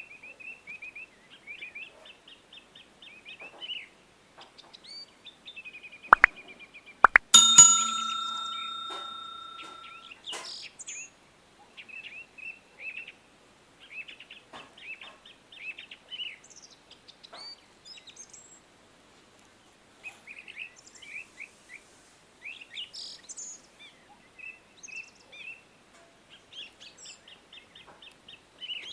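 Small birds chirping and singing in short repeated phrases throughout. About six seconds in come two sharp knocks, then a loud clank with a ringing tone that fades over about three seconds.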